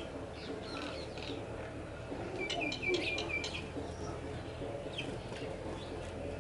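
House sparrows chirping, with a quick run of about five chirps around the middle, over a steady low background murmur.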